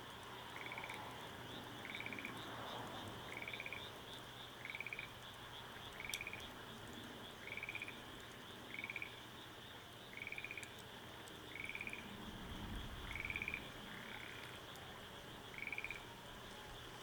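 A frog croaking over and over, each call a short pulsed croak repeated about every second and a half, against a steady high-pitched buzz.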